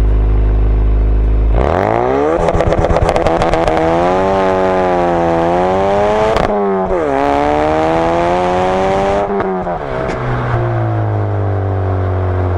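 Ford Focus RS Mk3's 2.3-litre turbocharged four-cylinder exhaust on a launch-control start. Revs are held steady at first, then about two seconds in the car launches and the revs climb with a fast crackle. There is a short dip for an upshift about six and a half seconds in, the revs climb again, and then drop back to a lower, falling engine note near the end.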